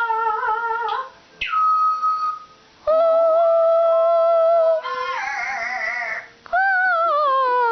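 A woman and a Timneh African grey parrot singing long held 'ah' notes back and forth. One note starts with a sudden high slide down to a steady whistle-like tone. Another wavers, and the last slides slowly downward near the end.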